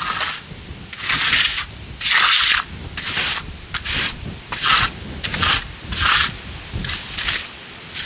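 A hand finishing tool scraped in repeated strokes across the surface of setting concrete, about one stroke a second, as the fresh pad is worked smooth.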